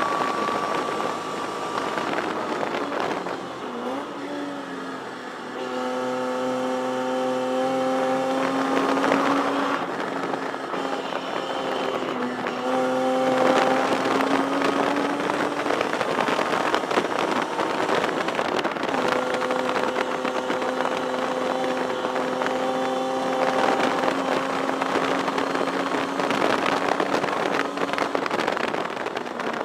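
In-cabin sound of a 1973 Datsun 240Z race car's straight-six engine at racing speed, its note climbing for several seconds and then dropping again several times as it goes through the gears, over wind and road noise.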